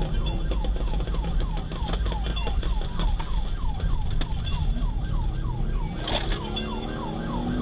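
Police car siren in a rapid yelp, falling sweeps about three a second, over heavy engine and road rumble. In the last couple of seconds an engine climbs steadily in pitch as the car accelerates, with a brief sharp crack about six seconds in.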